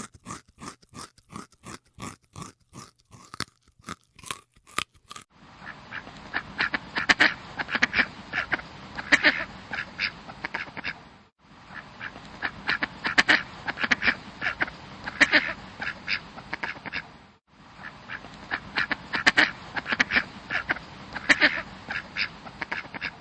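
About five seconds of even, crunchy chewing, about four crunches a second. Then ducks quack over a steady background hiss, in three near-identical stretches with short dropouts between them.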